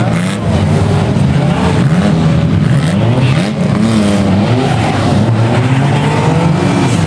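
Several banger-racing cars' engines running and revving at once, their pitches rising and falling over one another.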